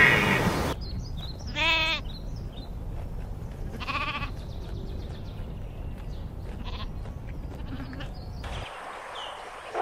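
Sheep bleating twice, a strong wavering bleat about one and a half seconds in and a shorter, weaker one about four seconds in, over a low steady background noise. A different sound is cut off in the first second.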